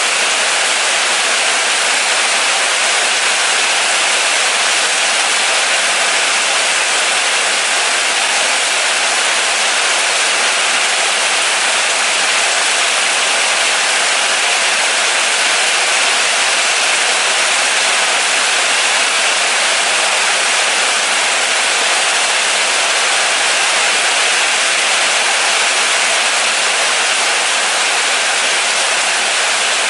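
Moderate rain falling steadily: an even, unbroken hiss with no single drops or pauses standing out.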